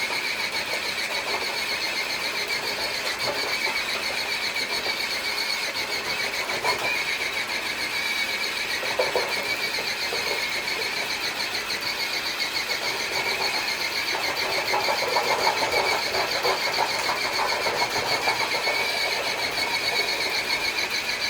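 Electric motor and gears of a scale RC crawler truck whining steadily at a high pitch while it drags a weighted sled across concrete, a little louder about fifteen seconds in.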